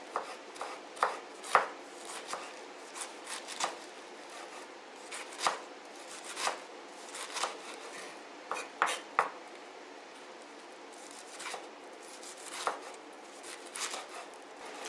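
Kitchen knife cutting vegetables on a cutting board: irregular, sharp knocks of the blade striking the board, with a short pause partway through.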